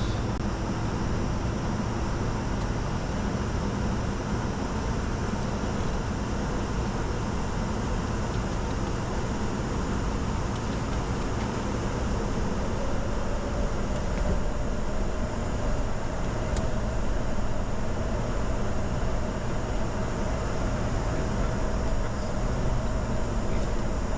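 Steady cockpit noise of a Bombardier Challenger 605 business jet: an even rush of engine and airflow noise, with a faint tone that rises slightly about halfway through.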